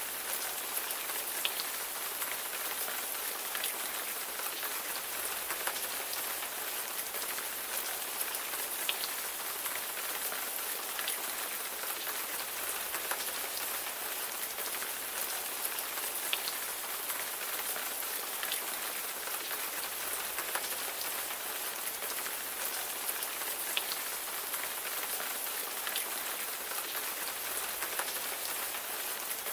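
Steady rain falling, a dense high hiss with scattered sharper drop ticks.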